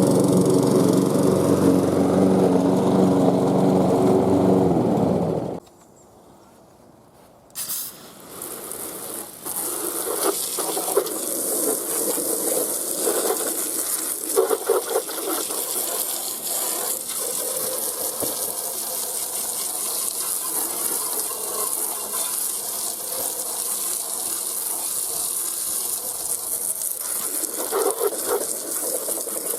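Briggs & Stratton engine of a Ferrex 46cm petrol lawn mower running steadily, cutting off suddenly about five seconds in. After a couple of seconds of quiet, a steady hiss with scattered rustles and knocks follows.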